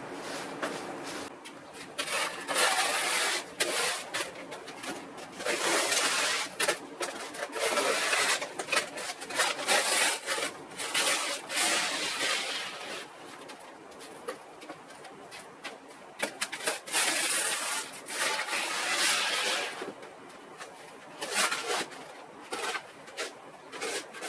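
Snow being cleared by hand: repeated scraping strokes coming in uneven runs, easing off about halfway through and again near the end.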